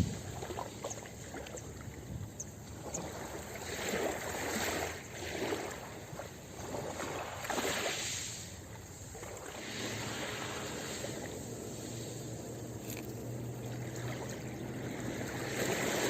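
Ocean surf breaking and washing up a beach, swelling and fading every few seconds, with a larger wave building near the end.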